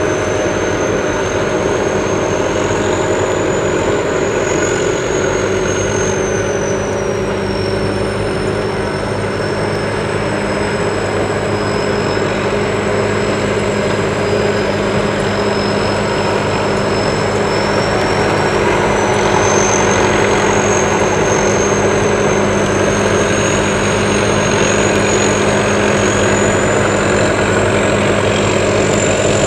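Sakpattana SS-200 mini combine harvester running steadily, its engine hum joined by a high whine that wavers slowly in pitch; the low hum grows stronger about five seconds in.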